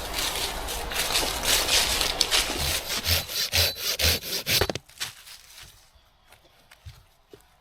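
Hand saw cutting through firewood in quick, rasping back-and-forth strokes. The sawing stops suddenly about five seconds in, followed by a few light knocks.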